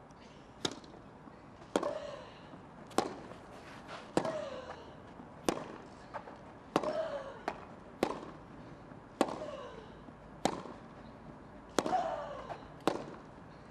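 Tennis rally on grass: rackets striking the ball about every 1.2 seconds, around eleven shots. Roughly every other shot is followed by a player's falling grunt.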